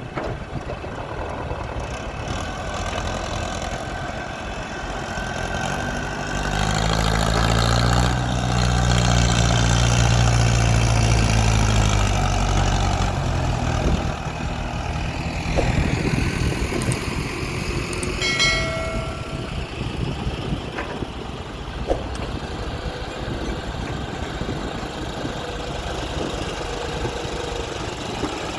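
Diesel engines of an excavator and tractors running steadily. For several seconds early in the clip the engine sound grows louder and deeper before settling back. A short beep sounds about two-thirds of the way through.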